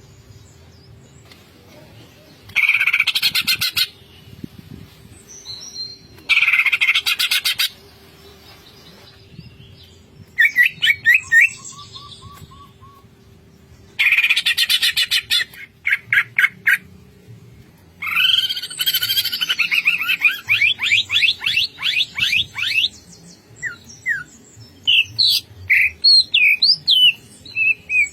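Cucak ijo (green leafbird) singing in the harsh 'ngentrok' style: three loud, rapid rattling bursts of about a second and a half each, between them quick chirps, a fast run of sliding whistled notes, and scattered sharp whistles near the end.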